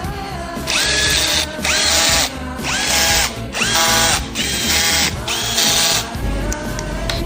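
A power drill spinning up in six short runs, each rising in pitch and then holding steady for about half a second, with background music underneath.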